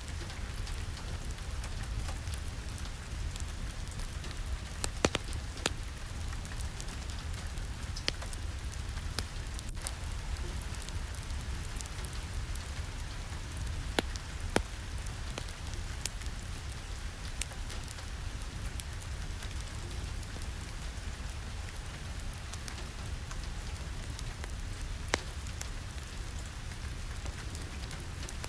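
Steady rain falling, with a low rumble underneath and a few scattered sharp crackles from a wood fire in a fireplace.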